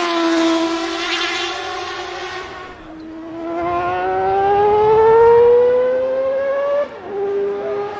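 Mazda 767B four-rotor rotary race engine at high revs, its note first easing down in pitch, then climbing steadily for about four seconds under acceleration before dropping off abruptly near the end.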